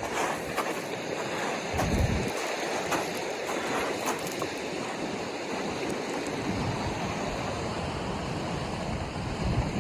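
Ocean surf washing on the shore, with wind rumbling on the microphone in gusts, the strongest about two seconds in.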